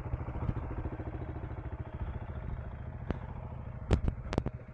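KTM 390 Enduro R's single-cylinder engine running at low speed with an even pulse, joined near the end by a few sharp clicks.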